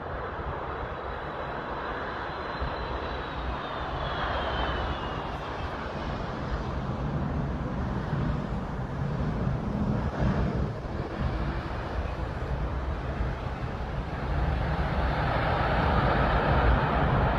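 Airbus A380's four jet engines roaring as the airliner passes low, growing steadily louder. A high engine whine glides down in pitch a few seconds in.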